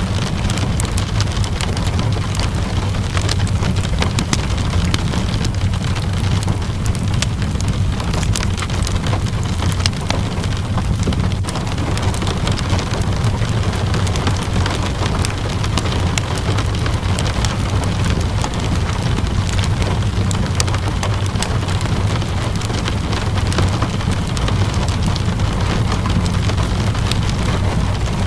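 Steady rainfall mixed with a crackling fireplace: an even wash of rain over a constant low rumble, dotted with many small sharp crackles and pops.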